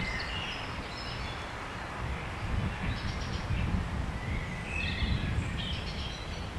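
Several short, high bird calls come in scattered bursts over a steady low rumble of outdoor background noise in woodland at dusk.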